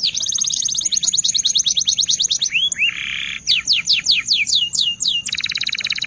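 Domestic Belgian canary singing a continuous song of rapid trills: series of quick falling whistles at about six a second, fast even rolls, and a short harsh buzzy note near the middle.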